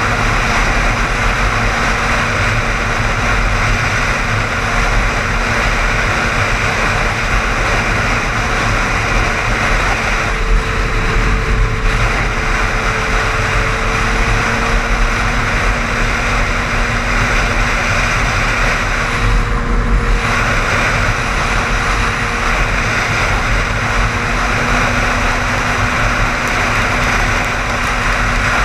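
Steady road noise of a car driving at highway speed: a constant hiss of tyres and wind with a steady hum underneath. The hiss thins briefly twice, about ten and twenty seconds in.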